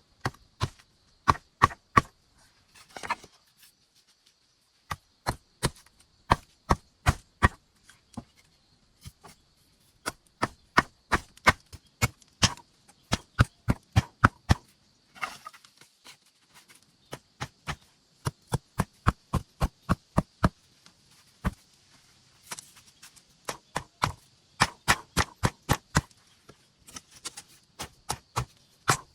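Wood being chopped with a blade: quick runs of sharp blows, two to four a second, broken by short pauses.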